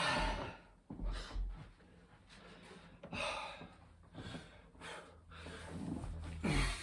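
A man breathing hard with loud, gasping breaths, about six in all, as he works through a burpee rep. A few dull low thumps come in the first second and a half.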